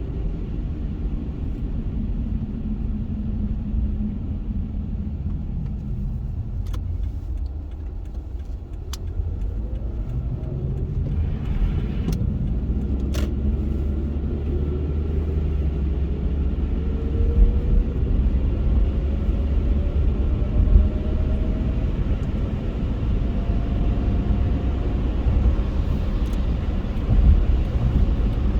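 Car driving with a steady low road rumble. Over the middle and later part a tone slowly rises in pitch as the car speeds up, and there are a few sharp clicks.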